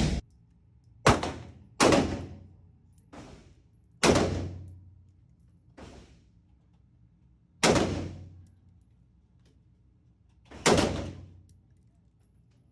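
Gunshots fired one at a time in an indoor range. There are five loud shots spaced one to three seconds apart, each with a short echoing tail, and two fainter bangs between them.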